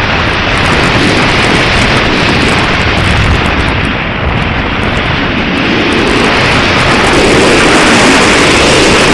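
Strong gusty wind blowing across the microphone: a loud, even rush with a ragged low buffeting that grows a little stronger in the last few seconds.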